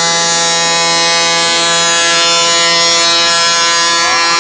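1/5-scale gas RC truck's small two-stroke engine running flat out at a steady high buzzing pitch, held at high revs under load while the truck pulls the weight sled.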